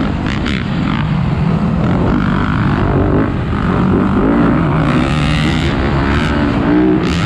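Dirt bike engines running on a motocross track, revving up and down repeatedly.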